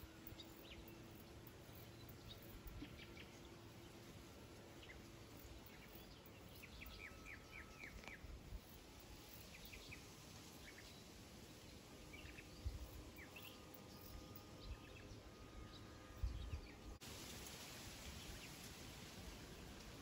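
Faint wild birdsong: scattered short chirps and a quick run of high, downward-sliding notes, over a quiet outdoor background hiss. A couple of soft low thumps come in the second half.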